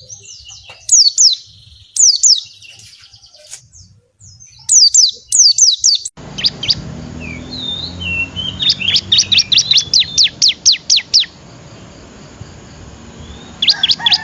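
A songbird singing in quick series of sharp, high whistled notes, each sweeping downward, in short bursts. About six seconds in, the recording changes abruptly: a faint low hum sits under a longer run of rapid notes, and a fresh burst comes near the end.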